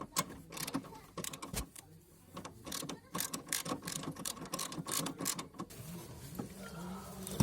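Ratchet wrench clicking in quick, uneven runs as a bolt is worked on the car, then easing off for the last couple of seconds before a single sharp clack at the end.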